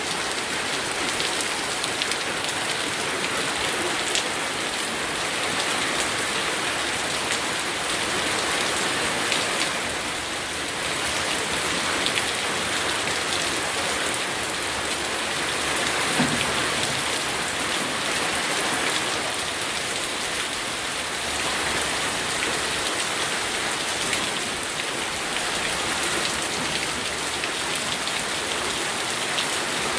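Steady rain falling and pattering on surfaces, with one brief small knock about 16 seconds in.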